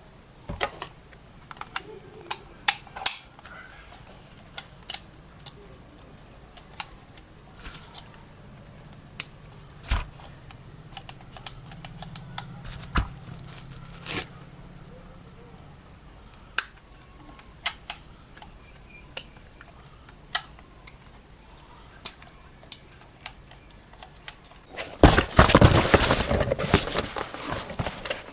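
Scattered sharp clicks and taps, like small objects being handled, followed near the end by about three seconds of dense rustling noise.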